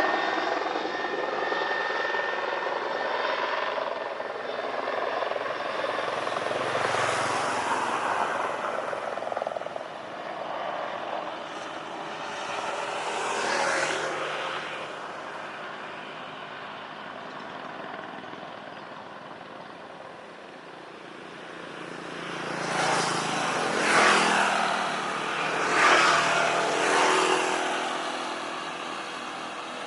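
Jet airliner engine noise from a take-off, with a steady high whine in the first few seconds, fading over the first eight or so seconds. Later, road vehicles pass close by, several in quick succession near the end.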